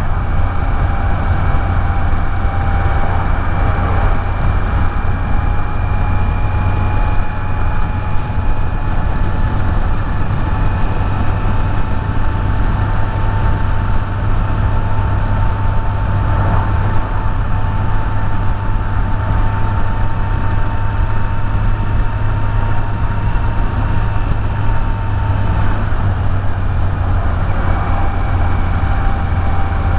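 Kawasaki Z900 inline-four engine pulling at a steady cruising speed under a steady low rumble. Its tone creeps slowly higher, then drops about 26 seconds in as the rider eases off or shifts.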